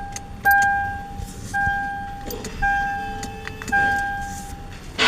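Car's dashboard warning chime dinging about once a second, each ding a clear tone that fades away. A short burst of noise near the end.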